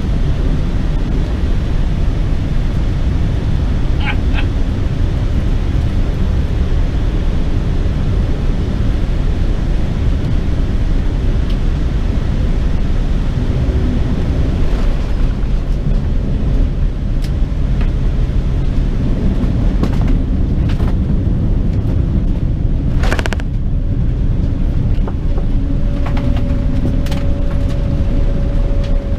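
Steady low rumble of a Boeing 787-10's engines and airflow, heard from inside the cabin during the approach and landing. There are scattered light clicks and knocks, one stronger knock about three-quarters of the way in, and a steady hum that joins soon after and holds.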